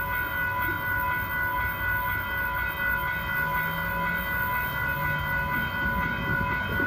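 Railroad crossing warning bell ringing steadily as a sustained cluster of high tones, over a low rumble.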